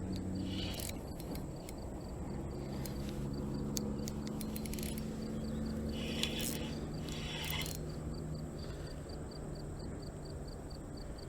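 Insect chirping steadily, a high pulse repeating about three times a second over a low hum, with a few short rustling bursts.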